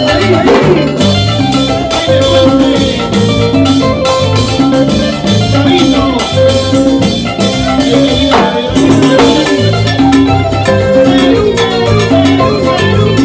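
Salsa band playing an instrumental passage, with a repeating bass line, pitched melodic instruments and steady percussion.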